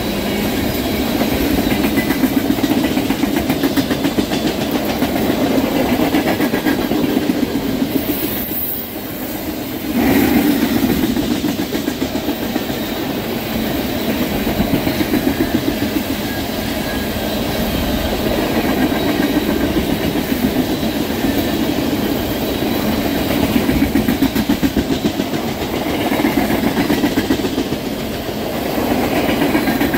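Freight train of loaded tank cars rolling past, steel wheels clicking rhythmically over the rail joints. The sound briefly drops off about eight seconds in, then comes back.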